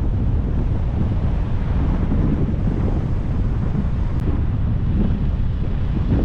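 Steady low rumble of wind buffeting the microphone of a camera on a moving car.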